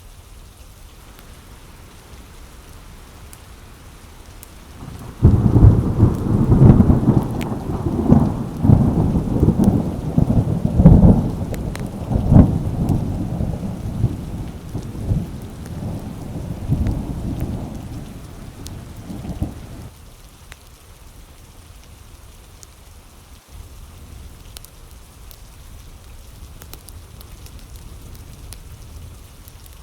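Thunderstorm: steady rain with a loud clap of thunder that breaks suddenly about five seconds in. It rolls on in several peals for about fifteen seconds, then dies back to the rain.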